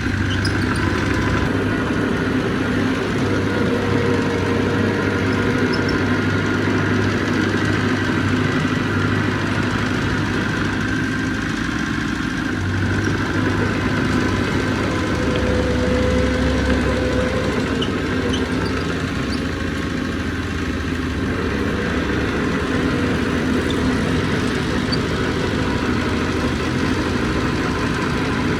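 Heavy diesel engine of earthmoving machinery running steadily, its low drone shifting slightly now and then as the load changes.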